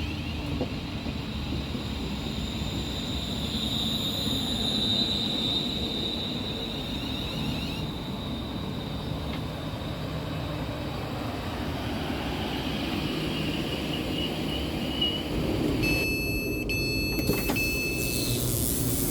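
Electric passenger train running, a steady rumble with a high whine above it. About 16 seconds in, a few short high electronic tones sound.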